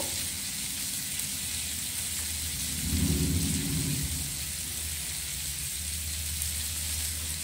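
Cauliflower florets sizzling in hot oil in a metal kadai: a steady frying hiss over a low hum, with a low rumble that swells about three seconds in and fades a second later.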